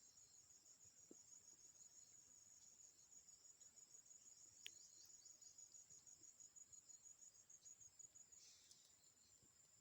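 Insects chirping outdoors in a faint, fast, steady high-pitched trill, with one short click about halfway through.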